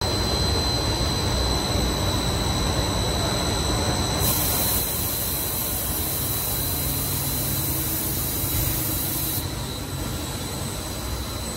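Sarmax Fibertech-S sanding machine running, a steady mechanical rumble with a thin high whine. A very high hiss joins it about four seconds in and drops out about nine seconds in.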